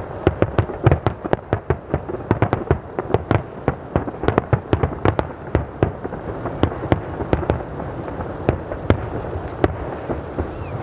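Aerial fireworks display: a rapid barrage of shell bursts, several sharp bangs a second over a continuous crackle.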